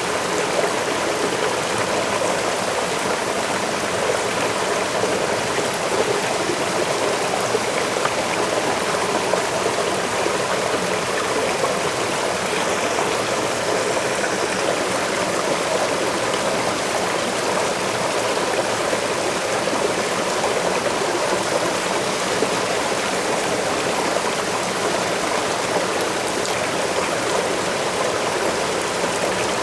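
Waterfall rushing with a steady, unbroken hiss of falling water.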